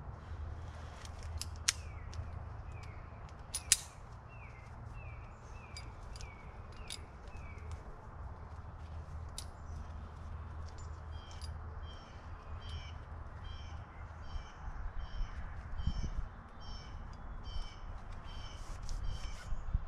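Small birds calling in woodland: a run of short falling chirps for a few seconds, then a different high call repeated about one and a half times a second. Two sharp clicks near the start, from climbing gear being handled at the rope, over a steady low background rumble.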